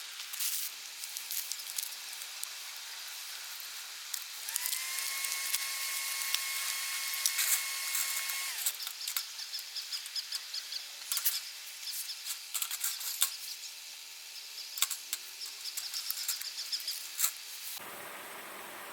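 Campfire crackling, with irregular sharp pops and snaps over a soft hiss. A thin, steady whistling tone rises in about four seconds in and fades out a few seconds later. Near the end the crackle cuts off to a steady low hum.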